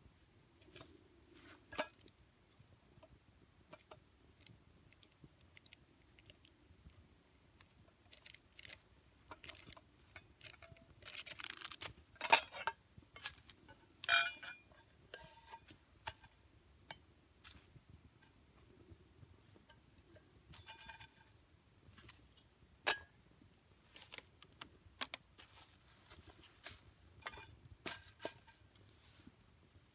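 Sporadic small clicks, scrapes and knocks of objects being handled, with a few brief rustling scrapes and a light metallic clink in the middle.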